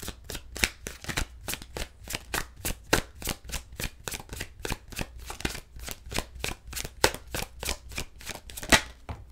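A deck of tarot cards being shuffled by hand, the cards slapping together in quick even clicks about four or five a second, stopping near the end.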